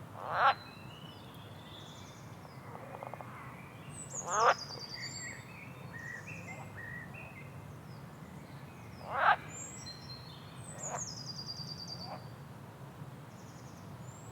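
Wild animal calls in forest: a loud upward-sweeping call about half a second in, again about four seconds later and again near nine seconds, with fainter ones after, over falling bird trills and scattered chirps. A low steady hum runs underneath.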